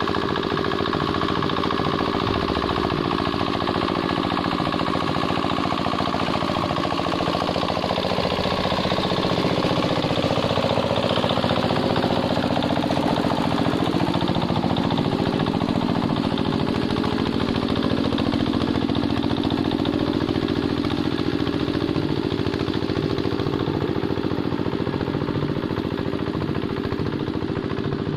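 Diesel engine of a Quick Capung Metal hand tractor running steadily under load while working a wet paddy. Its pitch dips and wavers for a few seconds midway, then steadies again.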